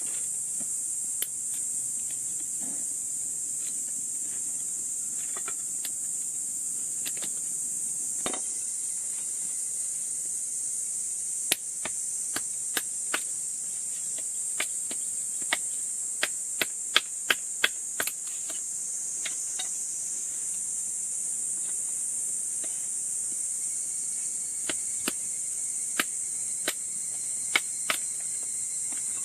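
Steady high-pitched insect chorus, with a scattering of sharp knocks that come in quick runs about halfway through and again near the end.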